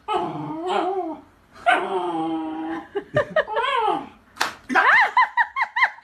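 A dog vocalizing, first with drawn-out wavering howl-like whines, then a quick run of short high yips at about four a second near the end.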